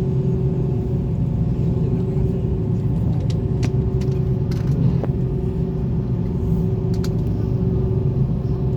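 Airliner cabin noise with the engines running at low power before takeoff: a steady low rumble with a constant hum on top. A few faint clicks sound during it.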